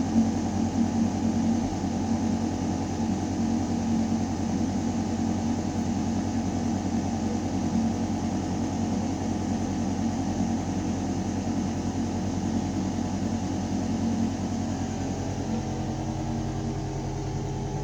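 Building ventilation system humming: a steady low mechanical drone of air moving through metal ductwork. Near the end a few new steady low tones join in.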